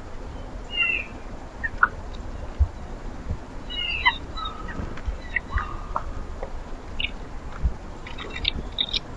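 Several birds chirping and calling in short, scattered notes at different pitches, with a few soft low thumps.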